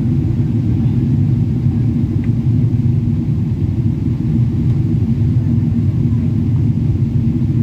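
Airliner cabin noise: a steady, loud low rumble of the jet engines and airflow heard from inside the passenger cabin.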